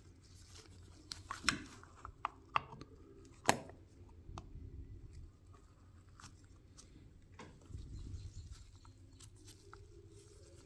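Scattered clicks and knocks of hand tools and small parts being handled during reassembly work, the loudest three within the first four seconds, over a low steady hum.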